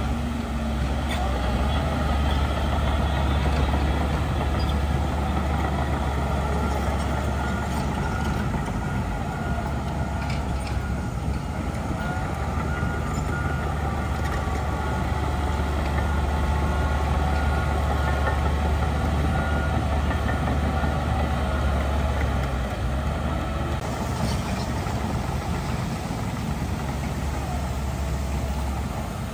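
Heavy diesel earthmoving machinery running steadily under load, a deep continuous engine rumble, as a bulldozer and dump truck work soil.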